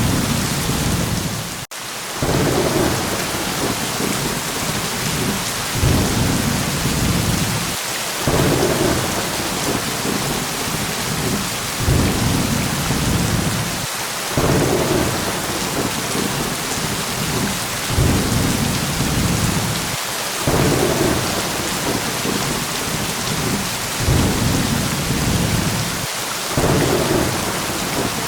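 Steady heavy rain with thunder rumbling over it in swells that return about every six seconds. There is a brief dropout in the sound about two seconds in.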